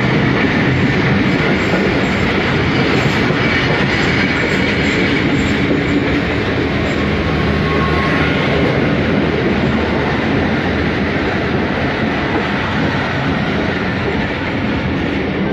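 Two Pakistan Railways passenger trains running side by side at speed, heard from aboard one of them: a loud, steady rumble and clatter of steel wheels on the rails.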